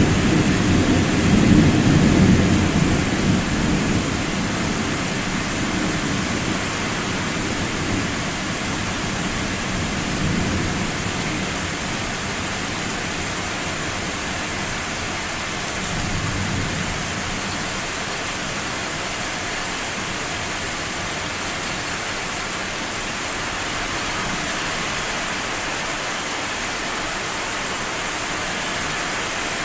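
Thunder rumbling, loudest in the first few seconds and then dying away, with weaker rumbles about ten and sixteen seconds in, over a steady hiss of heavy rain.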